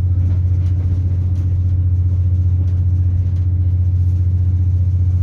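British Rail Class 170 Turbostar diesel multiple unit heard from inside the carriage: a steady low drone from its underfloor MTU diesel engine and running gear as the train travels, with faint ticks over it.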